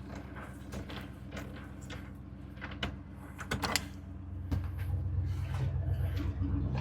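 A truck engine running steadily, with scattered clicks and knocks over it; the engine grows louder about four and a half seconds in.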